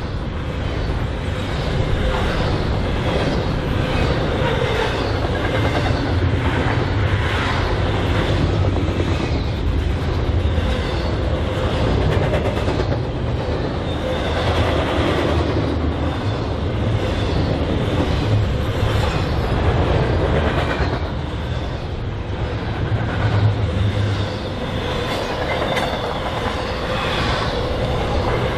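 Freight train cars rolling past close by: a steady heavy rumble with repeated clicks of wheels over rail joints, and a faint steady whine underneath.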